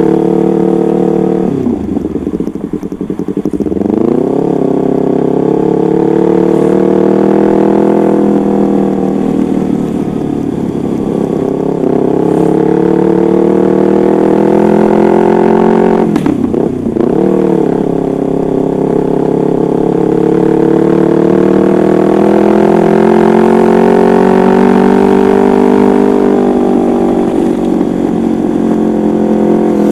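Yamaha MT-25's parallel-twin engine running through a custom exhaust, a steady engine note that drifts slowly in pitch. Twice, about two seconds in and again around sixteen seconds, the pitch drops sharply and climbs back.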